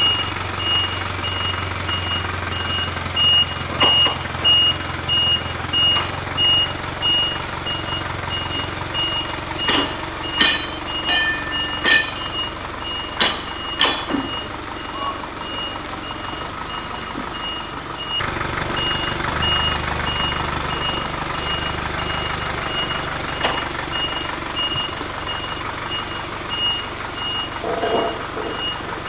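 A vehicle's reversing alarm beeping in a steady high-pitched repeating pattern over a low running engine. The beeping stops for a while in the middle, where a series of sharp knocks, the loudest sounds here, ring out, and then it resumes.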